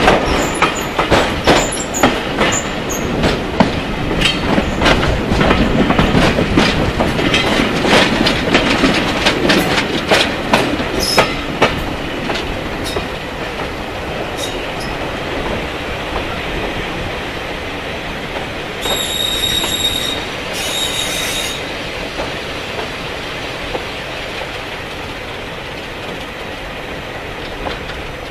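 Heritage diesel-hauled train running, heard from an open carriage window: wheels clattering over rail joints with many sharp clicks, quieter and steadier after about twelve seconds, with two short high wheel squeals a little past the middle.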